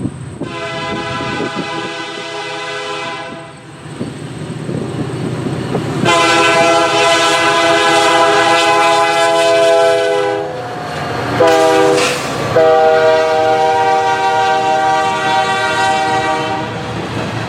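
Diesel locomotive's multi-chime air horn sounding the grade-crossing signal: two long blasts, a short one, then a long one, over the rumble and clatter of the approaching train.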